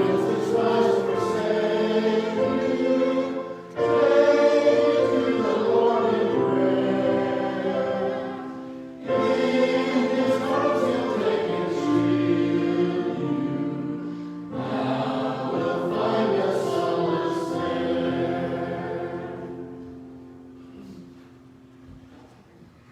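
Voices singing a hymn together in phrases with short breaks between them, the last chord held and fading away near the end.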